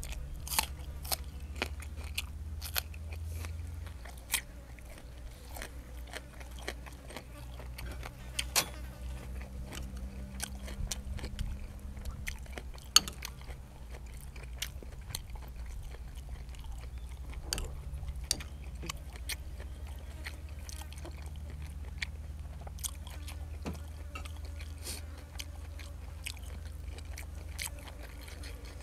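Close-miked mouth sounds of someone eating blanched squid and fresh vegetables: chewing with irregular sharp crunches and clicks, over a steady low rumble.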